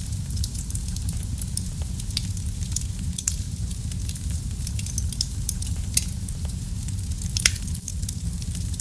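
Wood fire crackling in a fireplace: a steady low rumble of flames with irregular sharp pops and snaps, two of them louder about six and seven and a half seconds in.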